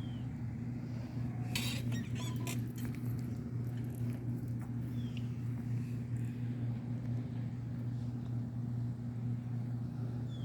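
Squirrel eating bird seed: a cluster of small sharp clicks and crackles about two seconds in, then scattered faint ticks, over a steady low hum. Three short, high, falling chirps sound at intervals of about five seconds.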